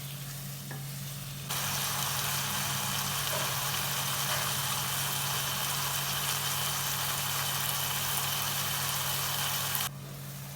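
Onion-tomato masala frying in oil in a pan: a loud, even sizzling hiss that starts suddenly about a second and a half in and drops away near the end, over a steady low hum.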